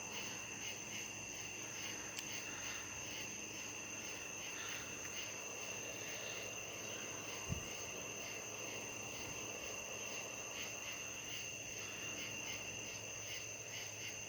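Crickets chirping in a steady, continuous chorus of high tones, with a single low thump about halfway through.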